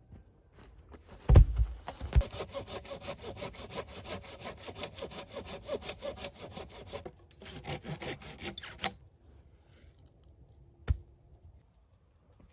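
Hand saw cutting through wood in quick, even strokes, with a brief break about seven seconds in. A loud knock just before the sawing starts is the loudest sound, and a single sharp knock comes near the end.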